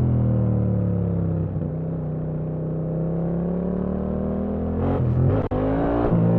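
Yamaha MT-07 motorcycle's parallel-twin engine running under way, its note sagging and then rising slowly. Near the end the note breaks off briefly and comes back higher.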